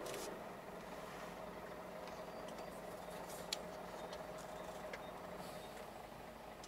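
Scania truck's engine running steadily under load as it climbs a grade, heard from inside the cab as a low, even hum. A sharp click sounds about three and a half seconds in.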